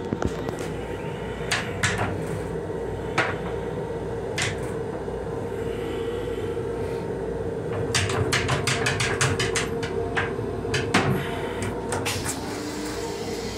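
Metro-North M7 electric railcar running, heard from inside its small restroom: a steady hum with a held tone, broken by scattered knocks and rattles, with a quick run of about eight clicks around eight seconds in.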